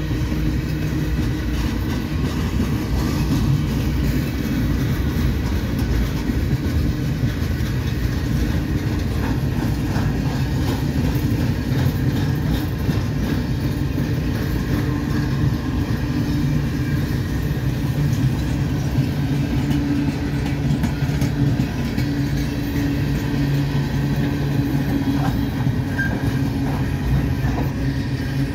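Empty military flatcars of a freight train rolling past: a steady rumble of steel wheels on the rails, with a few faint clicks.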